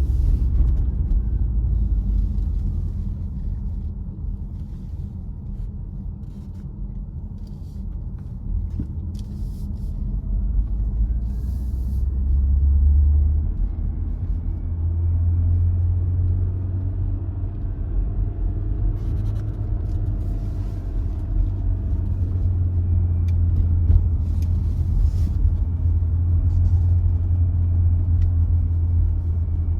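A car driving along, heard as a steady low engine and road rumble that shifts up in pitch about halfway through, with a few faint ticks over it.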